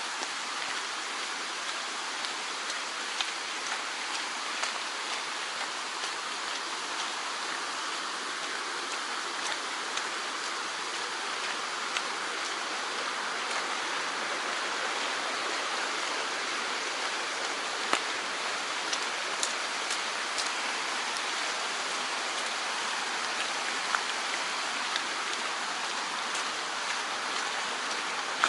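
Mountain stream flowing steadily, a constant rushing of water, with scattered light clicks over it.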